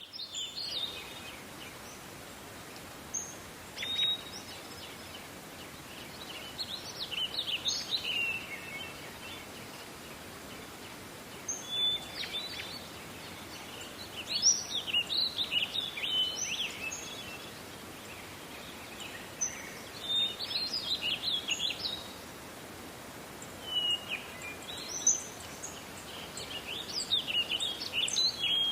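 Songbirds singing in a forest: short bursts of quick, high chirping phrases every few seconds over a steady background hiss.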